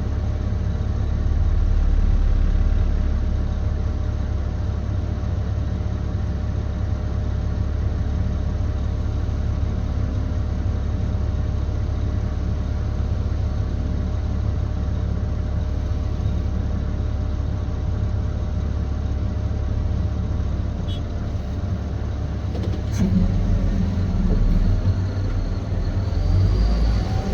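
Cat 725C articulated haul truck's diesel engine and drivetrain running steadily under way, heard from inside the cab as a continuous low rumble. About 23 seconds in, the engine grows louder and its note rises.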